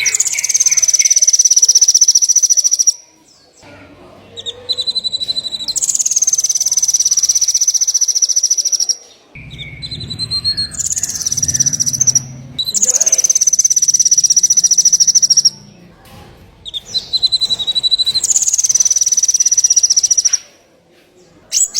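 A small songbird singing the same phrase over and over: a short high note, then a long fast trill that drops slightly in pitch. The phrase comes four times, about every six seconds, with a quick run of sharp chips near the end. This is masteran song for a young magpie robin to copy.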